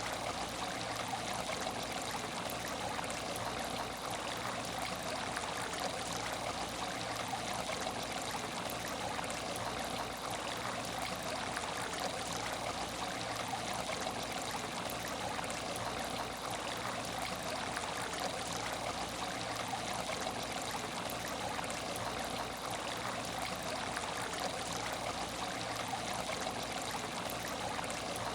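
Aquarium tank water trickling steadily and evenly, with a faint steady hum underneath.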